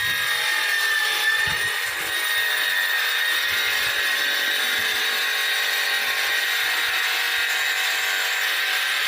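Power tool running continuously under load, with a steady high whine that sags slightly in pitch.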